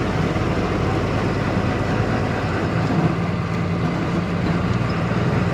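Truck's diesel engine running steadily with road and cab noise, heard from inside the cab as the truck starts down a long descent.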